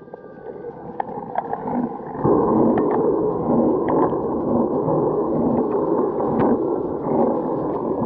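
Muffled rushing of wind and rain on a camera carried on a moving bicycle, jumping louder about two seconds in, with scattered sharp ticks.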